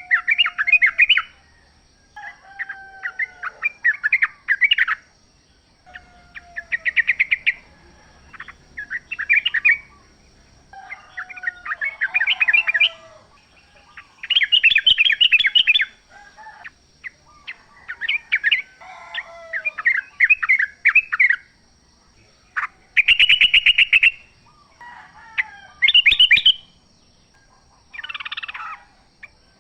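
Yellow-vented bulbul (trucuk) singing in the wild: a bubbly phrase of quick notes about every two seconds, several of them opening with a lower falling whistle. A faint steady high tone runs underneath.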